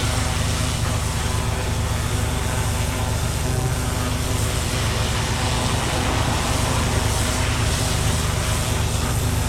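Pressure washer blasting moss off roof tiles through a turbo nozzle: a steady spray hiss over the low drone of the washer's engine.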